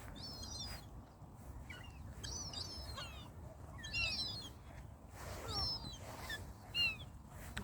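Birds chirping, with short high calls that slide downward, coming in scattered bursts every second or so over a low steady outdoor rumble.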